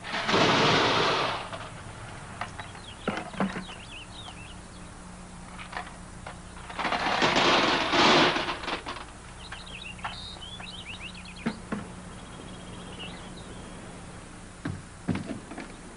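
Half-pound steel balls poured by the bucketful into a car, rattling loudly twice: just after the start and again about halfway, each pour about a second and a half. Scattered metallic clinks fall in between, over a steady low hum.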